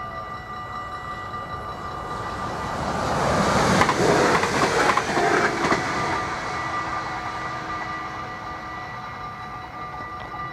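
Level-crossing warning bells ringing steadily while a regional passenger train passes over the crossing. The train's noise swells about two seconds in, is loudest around four seconds and fades away by about seven seconds.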